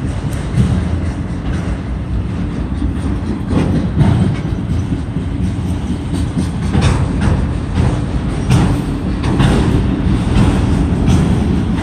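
CSX autorack freight train rolling past slowly: a steady rumble of steel wheels on the rails, with scattered clacks as the cars' wheels pass over the track.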